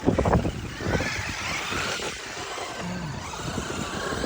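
Traxxas RC car's electric motor whining as it revs up and down, its pitch rising about a second in and falling again.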